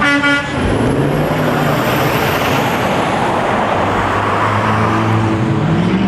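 Cars driving past with engines running over a steady haze of road noise. Near the end one engine's pitch climbs as it accelerates away.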